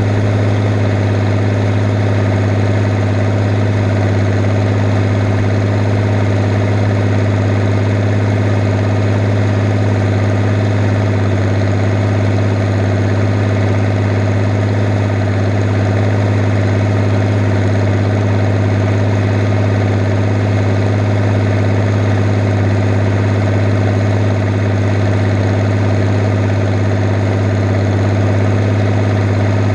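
Diesel engine of a Fiat 110-90 tractor running steadily under load while pulling a Pöttinger Servo 25 plough, a constant low drone with no change in speed.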